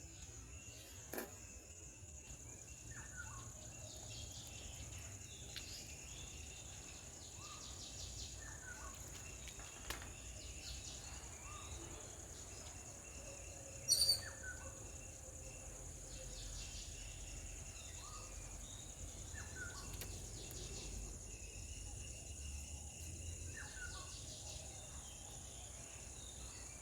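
Outdoor ambience of a steady high-pitched insect drone, with short falling bird chirps repeating every second or two and one louder, sharper call about halfway through.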